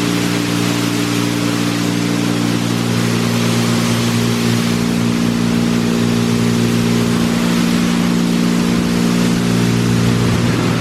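Mark VII AquaJet XT touchless car wash spraying water onto the car: a steady hiss of spray over a steady mechanical hum.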